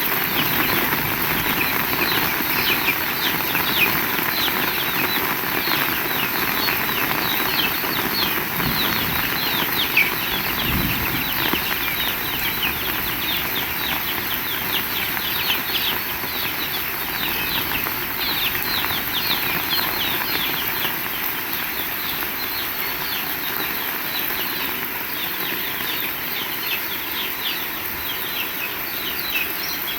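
Heavy rain falling steadily, with a dense close patter of drops. A single dull thump about ten seconds in.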